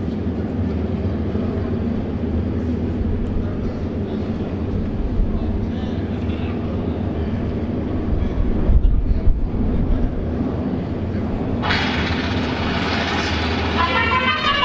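A steady low rumble, then a trumpet fanfare starting near the end.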